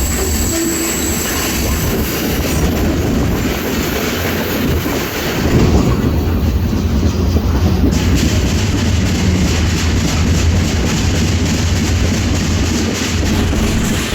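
Freight train rolling along the track: a loud, steady rumble with wheel clatter.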